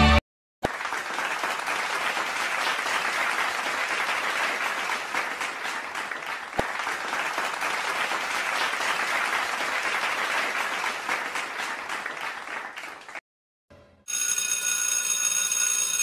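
Crowd applause, a dense steady clapping that tapers off after about twelve seconds. After a short gap, an old-style telephone bell starts ringing near the end.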